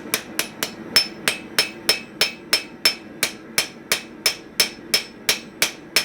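Blacksmith's hammer striking steel hinge stock on an anvil in a steady rhythm of about three blows a second, each blow with a short high ring.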